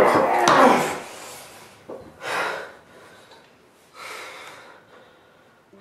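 A person breathing hard through the nose and mouth in three noisy bursts. The first, right at the start, is the loudest; the others come about two and four seconds in.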